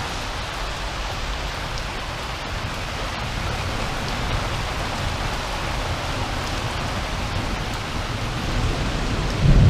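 Rain pouring steadily in a rainstorm, an even hiss of rain hitting the ground. A low rumble swells in near the end.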